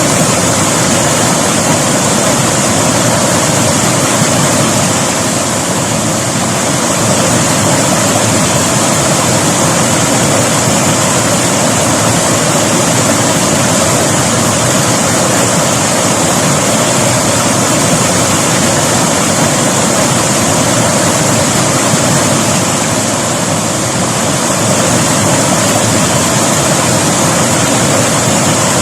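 River water rushing over rocks, a loud, steady roar with slight swells in level.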